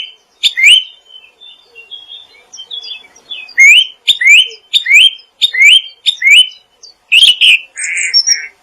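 A songbird calling: a run of loud, clear upward-sweeping whistled notes repeated about twice a second, a stretch of softer twittering in the middle, then the rising notes again, ending with a few harsher chattering notes.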